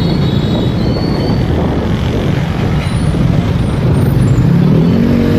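Motorcycle riding in traffic: its engine runs steadily under heavy road noise, with other traffic around. Near the end an engine note rises in pitch.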